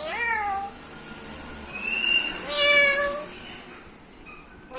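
Meow-like animal cries: one at the start that rises then falls, and a longer, steadier one about two and a half seconds in. A short, steady high whistle comes just before the second cry.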